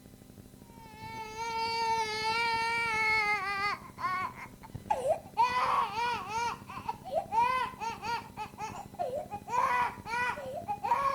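Infant crying: about a second in, one long wail with a slowly falling pitch, then a run of shorter cries that rise and fall, broken by brief breaths.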